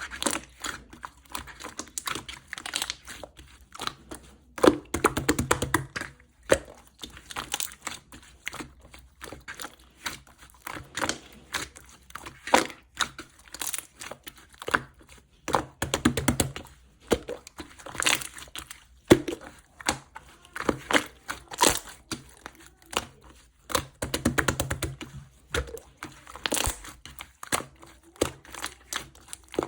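Slime being squeezed, pressed and poked by hand, giving off irregular crackling, clicking and popping. There are denser runs of crackles about five, sixteen and twenty-four seconds in.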